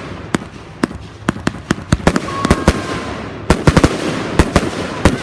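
Fireworks display going off: a rapid, irregular string of sharp cracks and bangs over a rolling rumble, with a dense cluster of reports a little past the middle and a brief faint whistle shortly before it.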